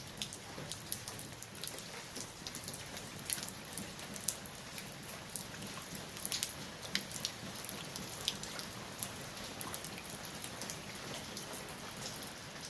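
Rain falling steadily, an even hiss with many individual drops striking close by as sharp, irregular ticks.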